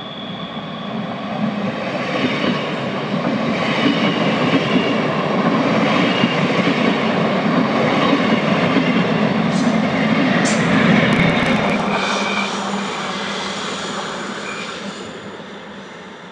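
A train passing through a station: its rumble builds up, stays loud for several seconds and fades away near the end, with brief high squeals from the wheels on the rails.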